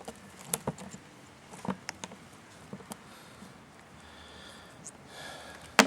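Scattered light clicks and handling noises from the filter and its seal, with one sharper, louder click near the end.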